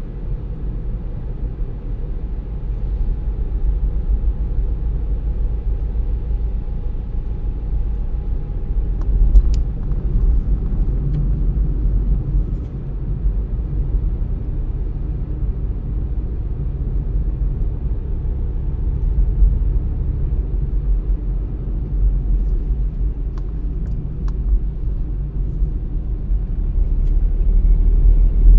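Car driving on the road: a steady low rumble of tyres and engine, swelling and easing slightly with the road.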